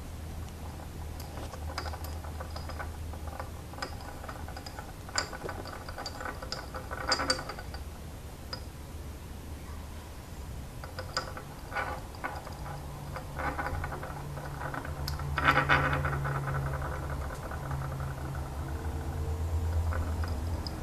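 Small seashells clicking and rattling as a budgie picks at and pushes them about, in irregular taps and short clatters, busiest about three-quarters of the way through. A steady low hum runs underneath.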